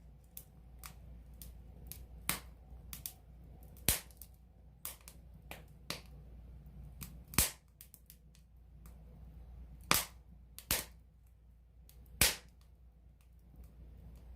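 Wood campfire heard close up, crackling with irregular sharp pops over a low steady rumble of the burning flames. A handful of pops stand out much louder than the rest.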